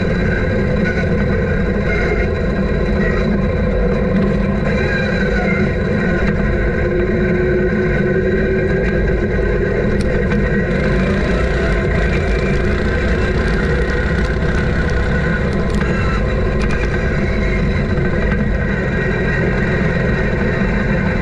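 Offroad lawn tractor's engine running steadily, with a few brief clicks and rattles in the middle.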